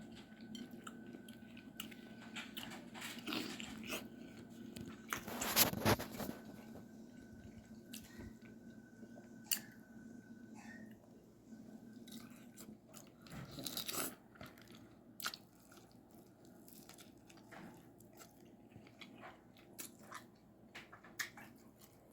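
A person eating a seafood boil of snow crab and shrimp: chewing and smacking with many scattered clicks and cracks of shell being broken and picked at, with louder crunches about six seconds in and again about fourteen seconds in.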